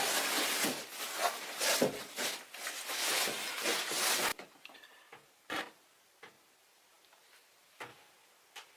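Rough scraping and rubbing, uneven in loudness, that stops abruptly about four seconds in, followed by a few light knocks.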